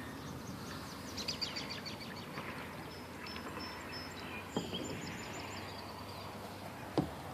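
Birds chirping and singing over a steady outdoor background hiss: a quick run of chirps early, then thin high whistled notes. Two sharp knocks come through, one about halfway and a louder one near the end.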